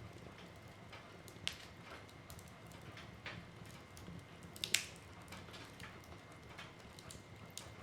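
Wood fire burning in a fireplace: a low, steady rumble of flames with scattered crackles and sharp pops of burning wood, the loudest a quick double pop a little past the middle.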